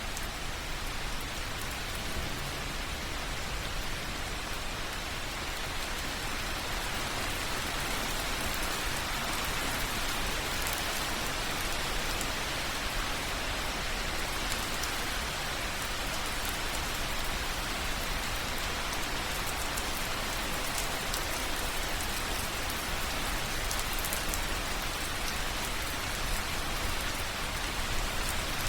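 Slow rain or drain water dripping onto grass or snow: a steady patter of many small drops.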